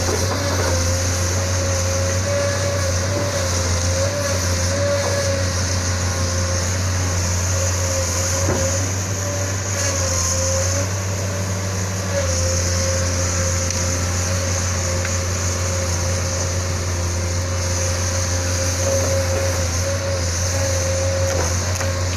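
Isuzu 6BG1 inline-six diesel engine of a Sunward SWE210 excavator running steadily, a deep continuous drone with a thin whine above it that wavers slightly in pitch.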